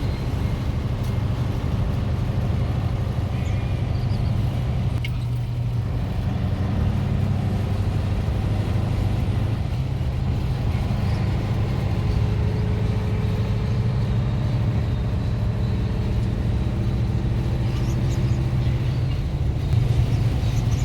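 Scania LBS 141's 14-litre DS14 V8 turbo diesel running under way, heard from the ride along: a steady low engine drone that breaks off briefly about five seconds in and shifts in pitch a few times after.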